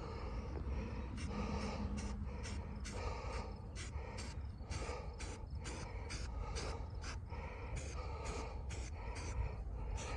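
Quick, short scraping strokes of a touch-up tool against a car's painted body, about two or three a second, over a low steady rumble.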